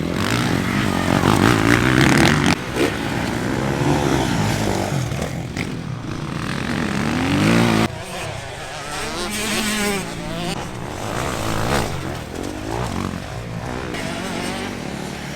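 Motocross motorcycle engines racing, revving up and down as the bikes accelerate and shift. About eight seconds in, the sound changes abruptly to a quieter engine note.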